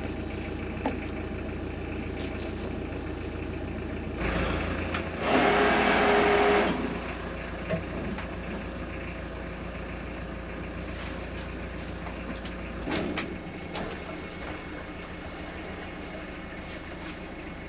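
A barge's engine running steadily, with a louder rushing surge lasting about two seconds, about five seconds in.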